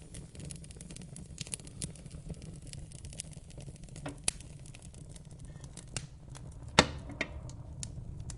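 Fire in a fireplace crackling: scattered snaps and pops over a low, steady rumble of the flames, with one loud pop near the end.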